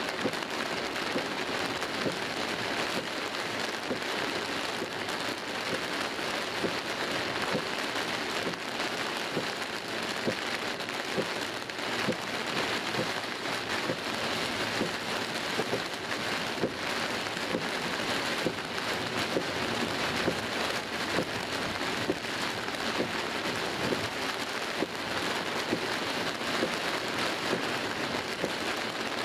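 Heavy rain pelting a car's roof and windscreen, heard from inside the car: a dense, steady patter of countless drops.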